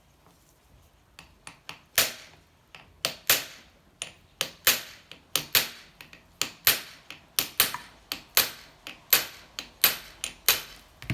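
Hammer blows on the seized piston of a 1984 Honda C70 engine: about twenty sharp strikes, roughly two a second and some in quick pairs, starting about two seconds in. They are driving the stuck cylinder slowly up off the crankcase.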